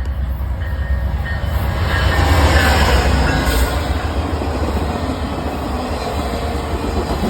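Amtrak passenger train rolling into a station, its wheels running over the rail joints over a steady low rumble. It grows louder about two seconds in, then holds steady.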